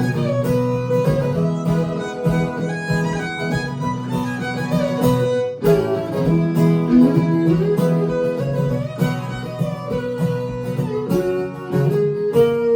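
Instrumental break in a live acoustic country song: string instruments playing a melody over steady chords, with no singing.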